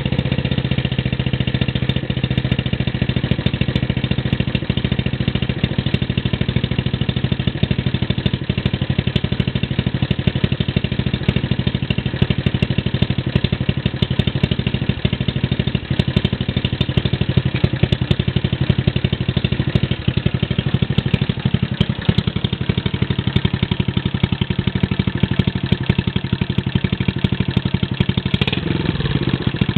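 Honda Little Cub's single-cylinder four-stroke engine idling steadily through a homemade aftermarket muffler, with an even exhaust beat; the idle eases slightly lower a little past two-thirds of the way in.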